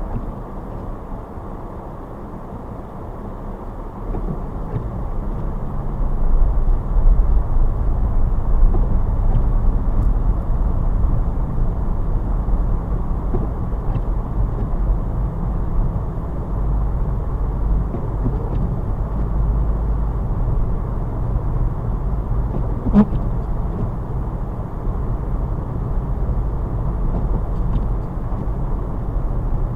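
Car driving on a road, a steady low rumble of engine and road noise that grows louder about four to six seconds in, with a single sharp click a little past the middle.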